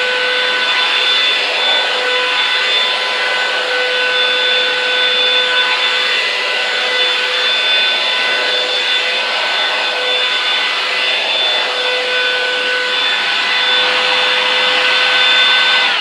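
Revlon One Step hair dryer brush running steadily: a rush of blown air with a high motor whine over it.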